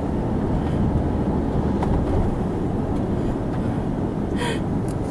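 Car driving, a steady low rumble of road and engine noise heard from inside the cabin, with a brief higher-pitched sound about four and a half seconds in.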